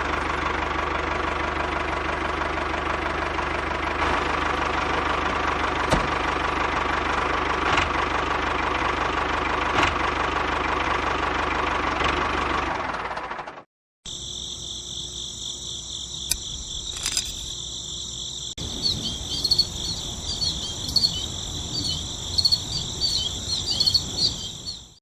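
A small motor runs steadily with an even hum for about thirteen seconds, then stops abruptly. After that, insects such as crickets chirp in a high, rapid trill, with a few irregular knocks underneath.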